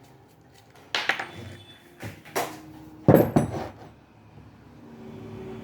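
Metal parts clanking as they are handled and set down: three bouts of knocks, the loudest a little past the middle, some leaving a brief metallic ring, followed by a faint steady hum near the end.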